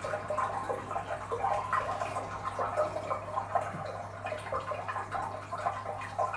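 Bathwater splashing and dripping in irregular little plinks as a toddler plays in the bath, over a steady low hum.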